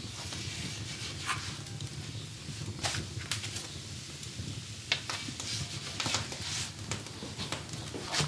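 Wood fire crackling in an open hearth under a galette griddle: irregular sharp pops, about eight of them, over a steady low rumble.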